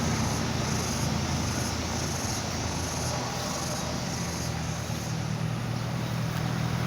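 A heavy truck's engine running steadily, a low drone under an even hiss.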